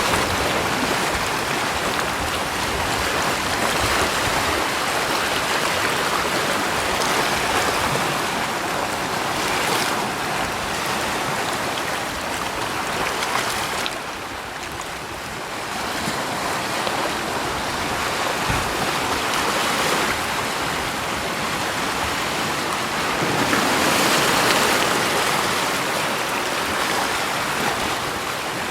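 Continuous rushing water noise, swelling and easing every several seconds, with a brief lull about halfway.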